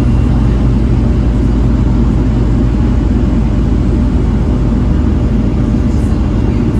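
Volvo B7TL double-decker bus's diesel engine running steadily, a loud low drone.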